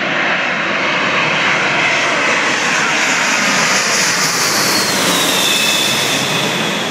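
Boeing 747 on landing approach passing by, its jet engines making a loud rushing roar with a high whine that falls in pitch as the plane goes past.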